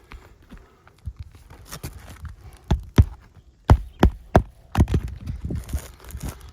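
Hammer driving roofing nails into an asphalt shingle: a series of sharp, irregular knocks, the loudest about three to four seconds in.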